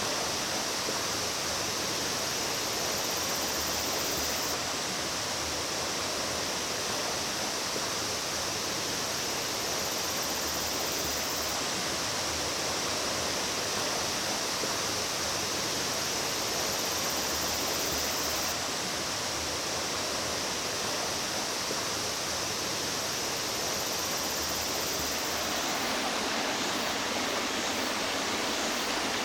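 Mountain stream water rushing steadily over rocks, a continuous even wash of sound that changes character near the end.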